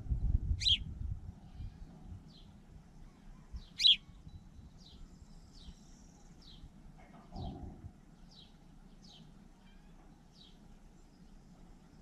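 Small birds chirping: two loud, sharp chirps about three seconds apart, then a string of faint, high, short calls at about one a second. A low rumble sits under the first second.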